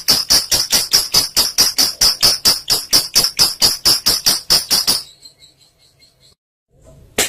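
Olive lovebird's 'ngekek': a long run of shrill notes repeated fast and evenly, about six a second, stopping about five seconds in. A short click follows near the end.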